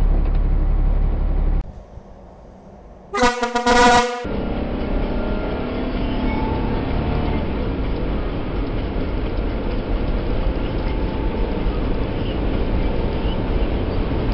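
Truck cab engine and road noise, interrupted by a brief quiet gap about two seconds in and then a loud, stuttering horn blast lasting about a second. The engine and road noise then carry on steadily as the truck accelerates up a freeway on-ramp to highway speed.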